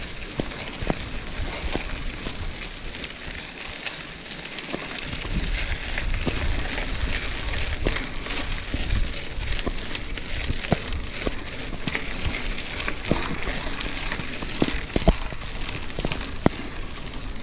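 Mountain bike rolling over a rough dirt trail: tyres crunching and crackling on loose ground, with frequent rattles and knocks from the bike, and wind rumbling on the microphone.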